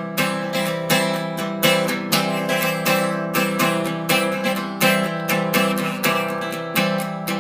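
Acoustic guitar strummed in a steady rhythm, about two strokes a second, as an instrumental break between sung verses.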